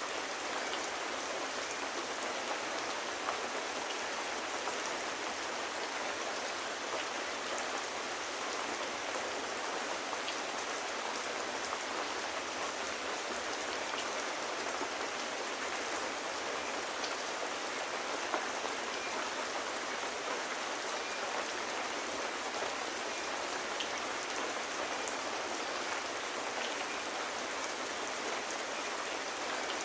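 Steady rain: an even hiss of rainfall with scattered light drop ticks, unchanging throughout.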